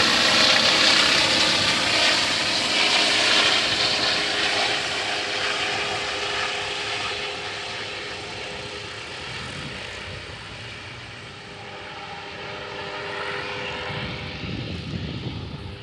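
Aircraft engine and propeller noise, loud at first and fading steadily over about eleven seconds as the aircraft moves away, then swelling slightly again near the end.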